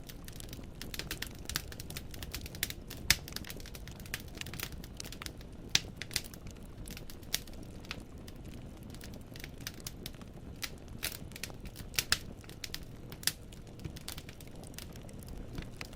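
Wood burning in a fireplace: logs crackling with irregular sharp pops and snaps, several louder ones about 3, 6 and 12 seconds in, over a steady low rumble of the flames.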